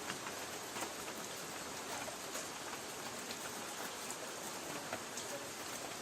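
Light rain falling on a tin roof: a steady hiss of rain with scattered individual drops ticking on the metal.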